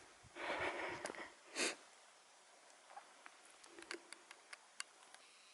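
A person breathing out close to the microphone, then one short sharp sniff, followed by a few faint small clicks.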